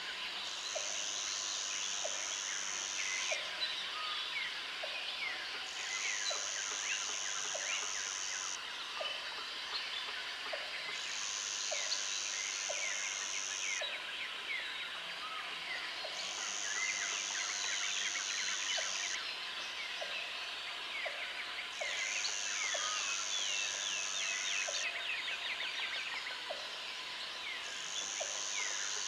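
Tropical forest ambience: many birds chirping and trilling together over a high, shrill insect buzz that comes in pulses of about three seconds every five seconds. Short low notes tick along about once a second underneath.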